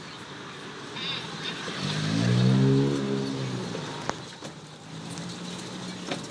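A motor vehicle passes close by, its engine hum swelling to a peak and fading away over about a second and a half, with a short sharp click a little later.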